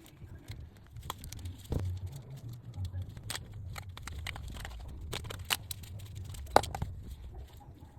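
Irregular sharp clicks and taps of small hard parts being handled, over a low steady hum, with the loudest click about six and a half seconds in.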